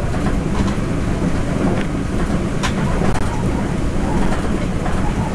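Cabin noise inside a running Taroko Express TEMU1000 tilting electric train: a steady rumble of wheels on rail, with a few sharp clicks from the running gear.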